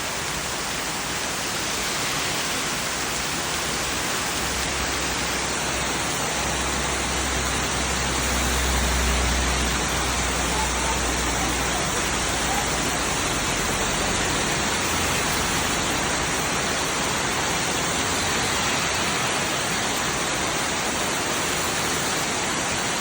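Heavy tropical downpour: a steady, dense hiss of rain pouring down. A low rumble swells in the middle and fades out after a few seconds.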